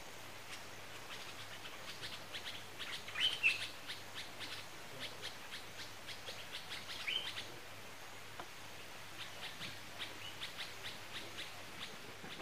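Birds chirping: runs of rapid, short high notes, with a louder rising call about three seconds in and another about seven seconds in.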